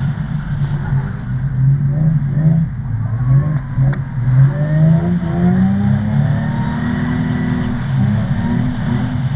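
Car engines revving hard, the pitch climbing and dropping again and again, with more than one engine heard at once, as cars drift on the track.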